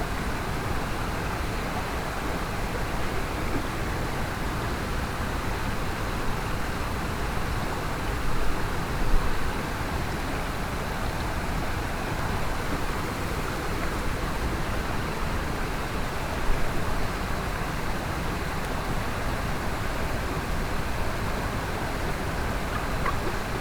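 Mountain stream rushing steadily, an even unbroken wash of water noise, with a couple of brief louder knocks about nine seconds in and again about seven seconds later.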